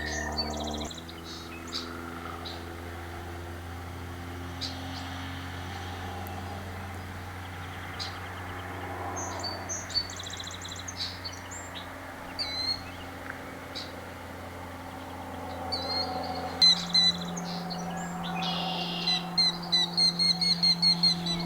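Wild birds calling and chirping, with a quick run of chirps near the end, over soft held chords of background music.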